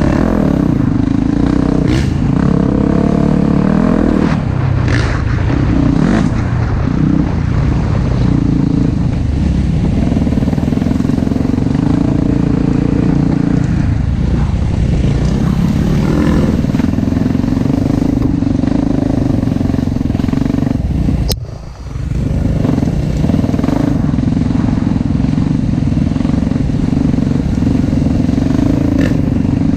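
Four-stroke single-cylinder dirt bike engine running on the trail, throttle rising and falling, with a brief sharp drop in level about two-thirds of the way through as the throttle is chopped. A few sharp clicks sound over it.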